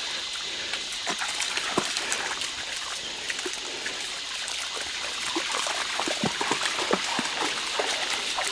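Shallow creek water splashing as a dog wades through it, with irregular small splashes that come more often in the second half, over a steady trickle of running water.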